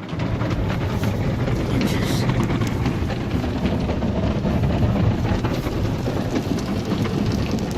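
Steady rumbling noise inside a car going through an automatic car wash, with scattered small ticks like water hitting the body.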